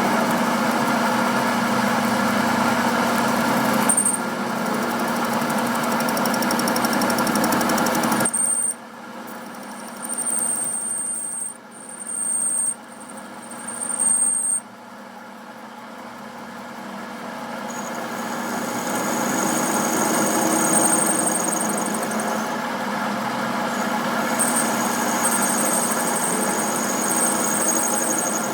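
A machine running steadily, with a thin high whine on top. About eight seconds in it drops away sharply, comes back in a few short surges, then builds up slowly over several seconds to a steady run again.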